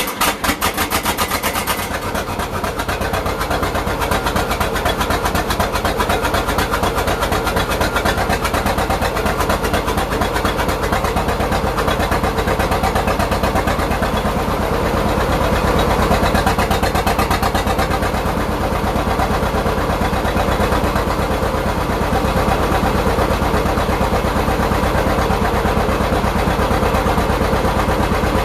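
A 1954 John Deere 60's two-cylinder engine catches on a cold start and then runs with an even, rapid beat, getting a little louder about midway.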